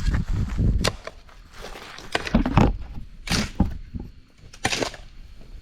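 Hand digging tool striking and scraping into gravelly creek-bed soil while a trench is dug: about five sharp hits spaced roughly a second apart.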